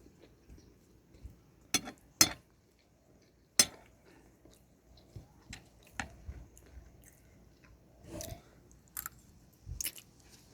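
A person chewing and biting food close to the microphone, eating a mixed plate of broccoli, cauliflower and fried plantain. It is broken by a few sharp clicks, the loudest about two seconds in and again about three and a half seconds in.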